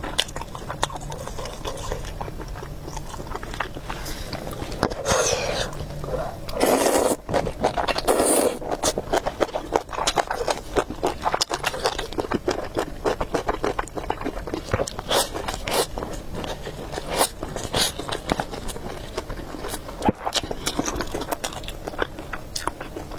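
Close-miked mukbang eating sounds of noodles: chewing, with many small wet clicks and smacks, and two longer, louder noisy stretches around five and seven seconds in.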